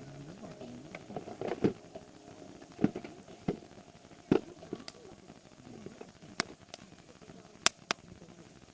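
Wood campfire crackling, with sharp pops at irregular intervals, two of them close together near the end.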